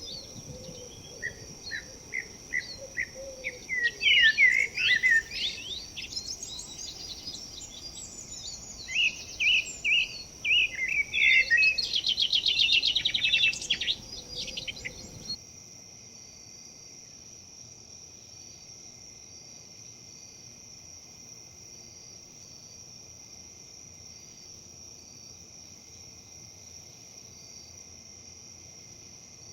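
Outdoor ambience of wild birds singing and calling in chirps and trills over a steady high-pitched insect drone and a soft rushing background. About halfway through, the birdsong and the rushing cut off abruptly, leaving only the insect drone.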